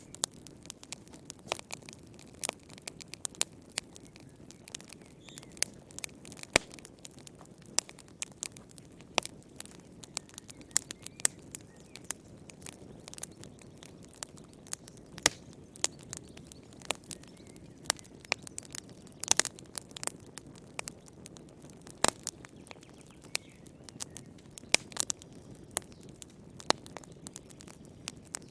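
Wood campfire crackling: irregular sharp pops and snaps, several a second, over a soft low rush from the burning fire.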